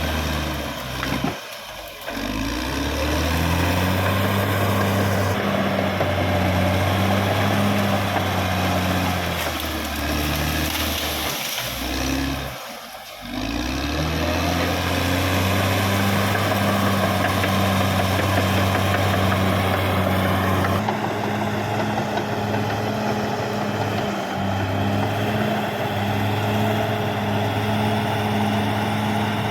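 Caterpillar D6R XL bulldozer's diesel engine running steadily, its note dropping briefly twice, about two seconds in and again near the middle.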